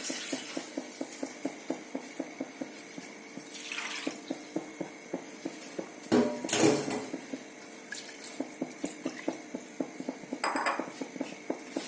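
Metal spoon stirring curry in a cast iron kadai, clinking and scraping against the pan about four times a second, with a louder clatter about six seconds in.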